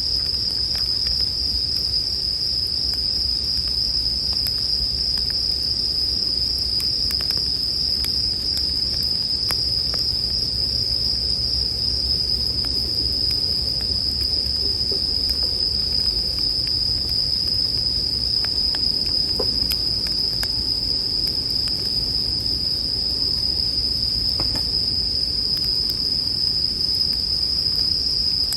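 Japanese bell crickets (suzumushi) trilling steadily in a high, unbroken chorus, with faint scattered crackles of a wood campfire and a low rumble beneath.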